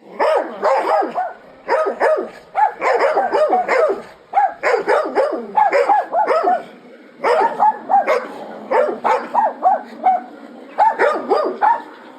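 Dog barking over and over in quick runs of short, high-pitched barks, several a second, with brief pauses between the runs.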